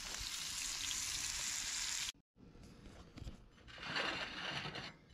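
Bacon-wrapped dove jalapeño poppers sizzling in a hot pan. The sizzle cuts off abruptly about two seconds in, then comes back about a second and a half later.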